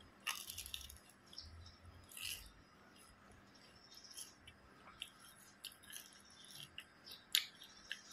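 Biting into and chewing a crisp deep-fried Thai dough stick (patongko): a crunchy bite about a quarter second in, another around two seconds, then small crackling clicks as it is chewed.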